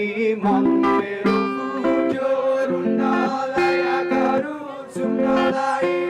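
Guitar music: a continuous run of plucked notes with some strumming.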